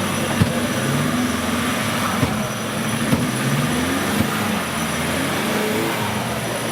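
Off-road competition vehicle's engine running with a wavering pitch, cut by four sharp knocks about a second apart in the first half.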